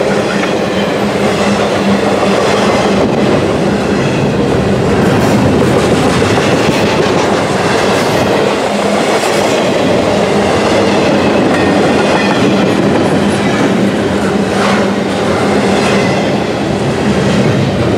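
Double-stack intermodal freight train passing, its container well cars rolling by on steel wheels with a loud, steady rolling noise and repeated clacks over the rail joints.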